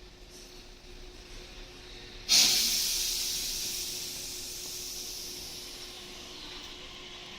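Sudden loud hiss of compressed air venting from a Tobu 8000 series train about two seconds in, fading slowly over several seconds.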